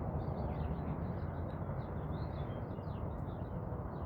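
Small birds chirping, many short falling notes overlapping one another, over a steady low background rumble.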